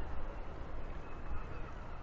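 Wind buffeting the microphone as an uneven low rumble, with faint high calls in the background.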